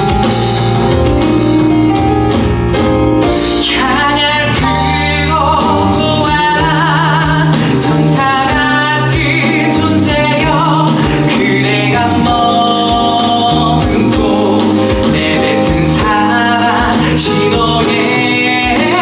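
Live musical-theatre song: voices singing long, wavering notes with vibrato over a full band accompaniment, loud and steady throughout.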